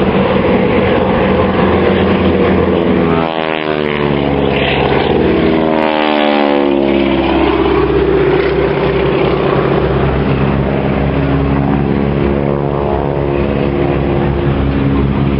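Piston engines of two propeller display aircraft running steadily as they fly past, their pitch dropping as each one passes, about three and six seconds in.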